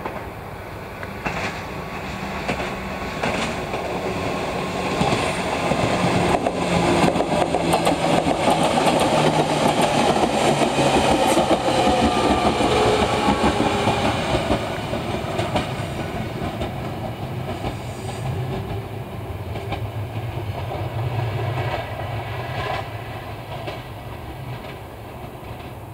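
Toyama Chiho Railway electric train passing by: wheels clicking over the rail joints and a running hum that drops in pitch as it goes past, building to a peak in the middle and then fading as the train draws away.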